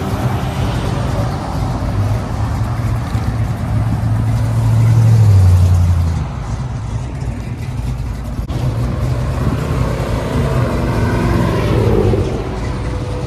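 Car engines as cars drive out of a parking lot. One engine is loudest about four to six seconds in, then drops in pitch; a second engine is heard from about nine seconds.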